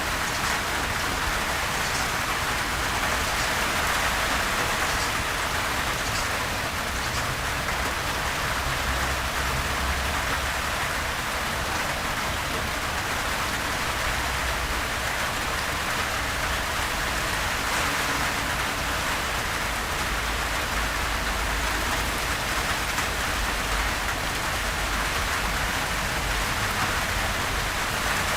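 Steady gentle rain falling on a surface, an even hiss of drops with a low rumble beneath.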